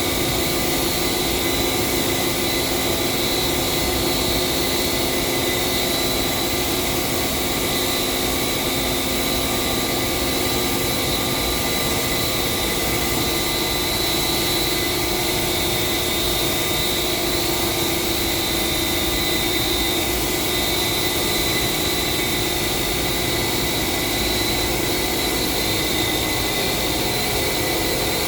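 Spray-painting equipment running steadily: a continuous hiss of air with a steady machine whine under it, unchanging throughout.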